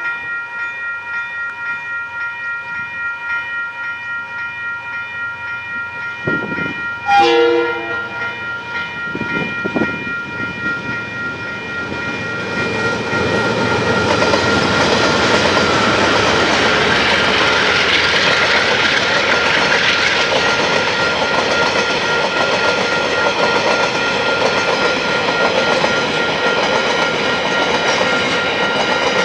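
Level-crossing warning bells ringing in a steady rhythm, with a short diesel locomotive horn blast about seven seconds in. From about twelve seconds the KiwiRail coal train runs over the crossing, and the noise of its locomotive and wagon wheels grows loud and stays loud.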